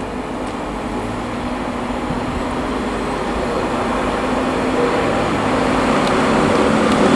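LNER InterCity 225 express led by a Class 91 electric locomotive approaching the station: a steady rail rumble with a low motor hum, growing steadily louder as it nears.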